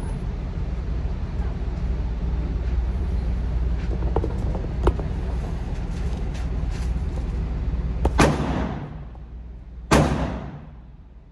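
Two 9mm pistol shots from a Glock 19, about two seconds apart, each with an echoing tail. They sound over a steady low rumble that fades out right after the first shot.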